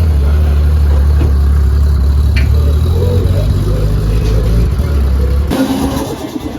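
Car engine running loud at a steady low pitch, then cutting off abruptly about five and a half seconds in.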